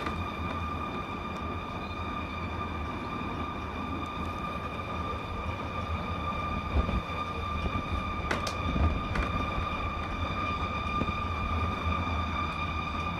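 Unexplained sound heard in the sky: a steady high-pitched whine with evenly spaced overtones, over a low rumble. It is the eerie, wailing sound that residents hear as if it comes from overhead; its source is not known.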